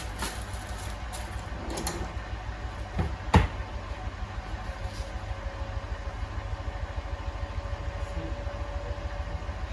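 Beko WTK104121A washing machine running, with a rapid low pulsing from the turning drum and two sharp knocks about three seconds in; a steady motor whine comes in about halfway.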